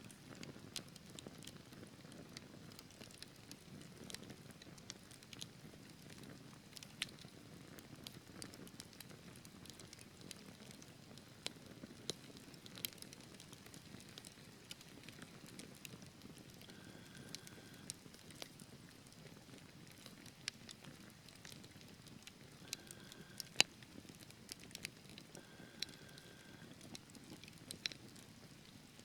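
Wood fire burning in a fireplace: irregular sharp crackles and pops over a soft low rumble of flames, with one louder pop past the middle. A few faint, brief high whistles come and go.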